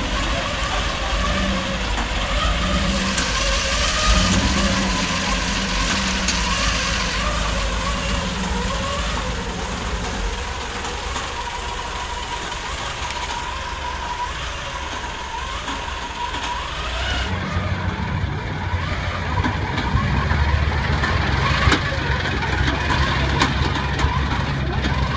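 Rolls-Royce Merlin V12 aero engine, stripped of its superchargers and fed by Holley carburettors, running steadily at a low idle in a car. The sound changes abruptly about two-thirds of the way through, the low engine note becoming heavier.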